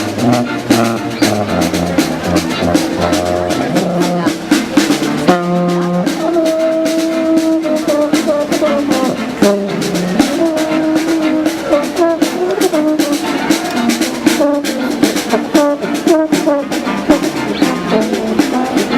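Street band playing an upbeat, funky tune, with brass melody lines over a steady drum beat.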